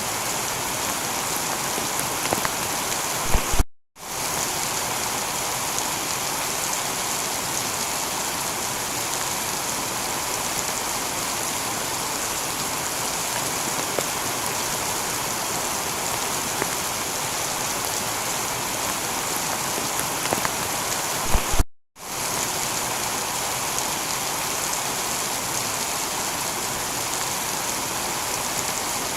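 Heavy rain falling steadily on a tiled roof, a dense even hiss of drops. Twice, about 4 and 22 seconds in, a low knock is followed by a brief cut to silence before the rain resumes, as at a loop splice.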